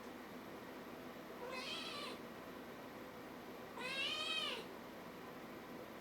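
Kitten meowing twice: a short, fainter meow about a second and a half in, then a louder, longer one about four seconds in whose pitch rises and falls.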